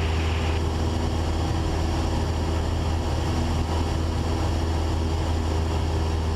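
Cessna 172's four-cylinder Lycoming engine and propeller droning steadily in flight, heard inside the cabin: a constant low hum that holds the same pitch and level throughout.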